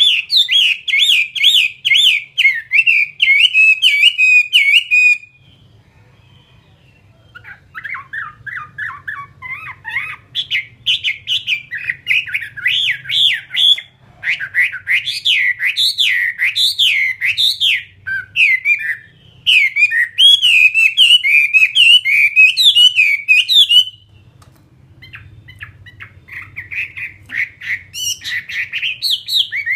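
Chinese hwamei (a fighting songbird) singing loudly in long phrases of rapid, repeated whistled notes that slide up and down, with two short breaks, one about five seconds in and one near the end.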